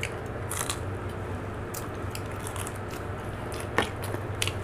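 Chewing and crunching of turon, a fried banana spring roll with a crunchy sugar-coated wrapper, with scattered crackly bites and one sharper crunch just before the end. A low steady hum runs underneath.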